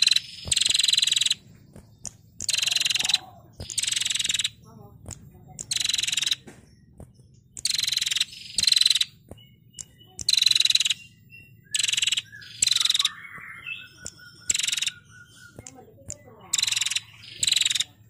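Female prenjak giving its rapid buzzing trill calls, the 'ngetir' sound: short harsh bursts of about half a second, often in pairs, repeated every second or two.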